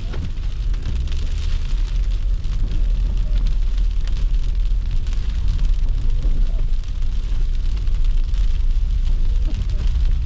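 Steady low rumble of a car driving, with an even hiss of road noise over it.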